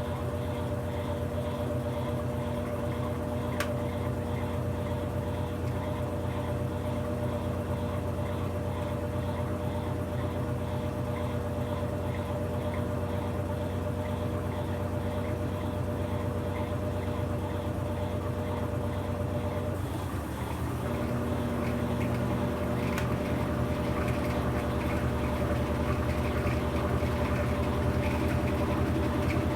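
Brastemp BWK17 17 kg washing machine running mid-cycle: a steady motor or pump hum with water moving inside. About two-thirds of the way through the hum breaks off for a moment, then resumes slightly louder.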